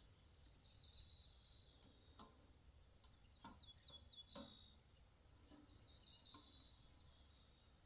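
Near silence with faint birdsong: three short phrases of quick repeated chirps from a small bird, and a few faint clicks.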